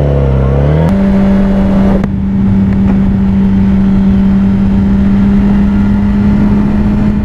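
Motorcycle engine under way: its pitch shifts in the first second, then holds steady at cruising speed, with wind rush over the microphone.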